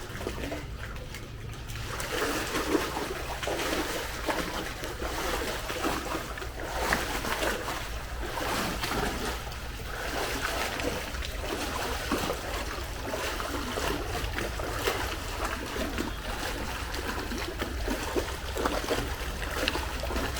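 Pool water splashing and sloshing in an irregular run of splashes, over a steady low hum.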